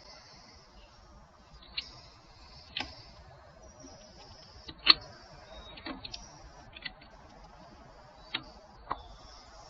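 Irregular sharp clicks and taps, about seven spread over several seconds, one much louder than the rest about halfway through, over a faint high hiss.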